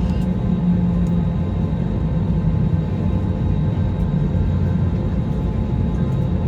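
Steady low rumble of a jet airliner, cutting off suddenly near the end.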